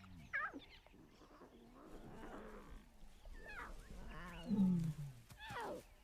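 Lions growling and snarling in a string of short calls that bend in pitch. The loudest is a low growl about four and a half seconds in.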